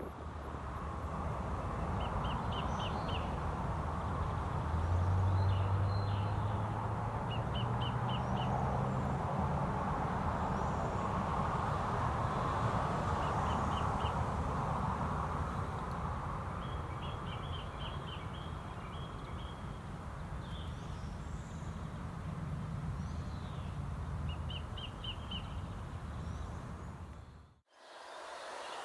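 Birds calling in short, quick runs of three to five high notes, repeated every few seconds over a steady low rumble of background noise. The sound cuts off abruptly near the end.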